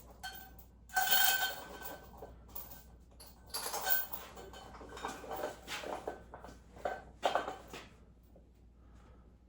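Metal gym weights clanking and clinking in three bursts: about a second in, around four seconds and after seven seconds, with a short metallic ring in the first.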